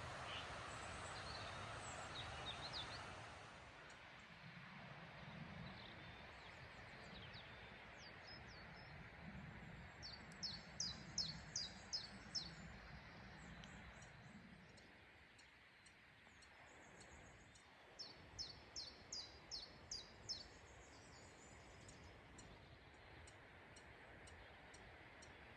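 A songbird calling twice, each time a quick run of seven or eight short, high, downward-sweeping notes, over a faint steady background hiss.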